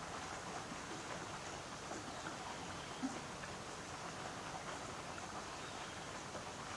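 Steady rain falling, with many small scattered drips and one louder drop about three seconds in.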